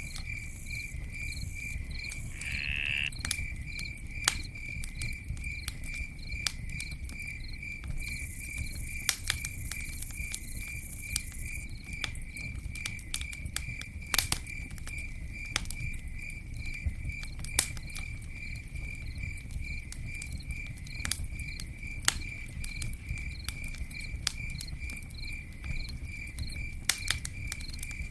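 Campfire crackling, with sharp pops at irregular intervals over a low rumble. A cricket chirps steadily in a fast, even pulse throughout.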